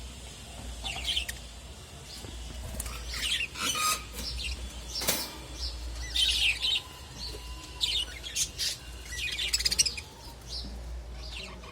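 Small pet parrots chirping and calling in short, high bursts, with a sharp click about five seconds in and a low steady hum underneath.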